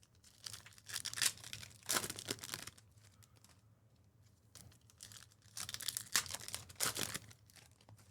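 Crinkling and tearing of packaging, in two spells of short crackly bursts with a pause between them.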